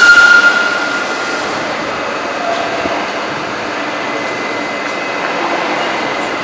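DB class 442 electric multiple unit standing at a station platform: a short loud hiss with a high whistling tone in the first second or so, then the steady hum of the standing train and the station hall.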